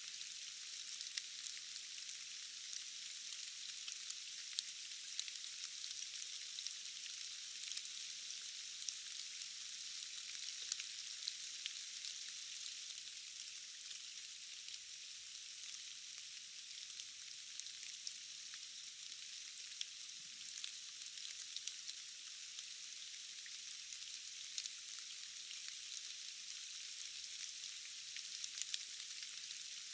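Steady rain falling, a fine even hiss with many small drop ticks scattered through it, thin and high with no low rumble.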